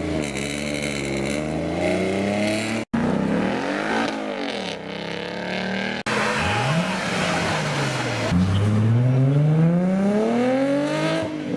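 High-performance supercar engines accelerating hard, in short spliced shots with abrupt cuts about three and six seconds in. The engine note climbs in pitch under throttle, with a quick rise and fall midway. A long climb then runs through the last few seconds and drops at a gear change near the end.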